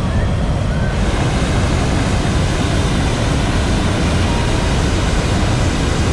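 Hot-air balloon propane burners firing together in a long, steady roaring blast.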